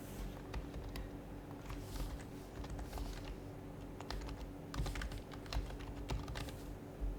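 Typing on an HHKB Professional HYBRID Type-S keyboard: its silenced Topre keys give irregular runs of keystrokes that stop just before the end.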